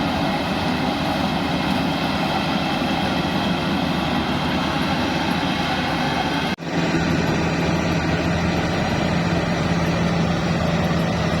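Bimo Plus rice harvesting machine's engine running steadily. About two-thirds of the way through the sound drops out for an instant, and after that a steady low hum stands out.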